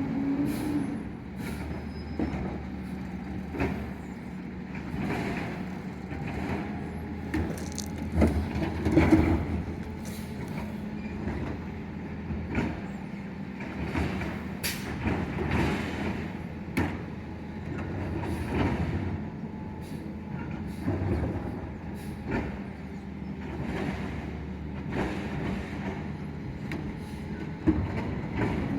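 Garbage truck engine running steadily, with repeated sharp clanks and knocks.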